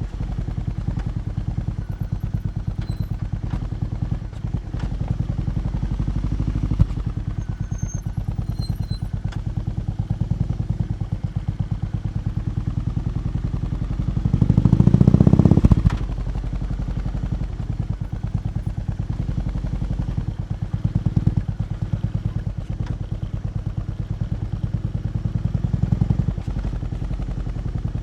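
BMW R18 B's 1802 cc boxer-twin engine idling, its exhaust giving a steady, even pulse. About halfway through it is revved once hard and cut off sharply, with two smaller throttle blips later.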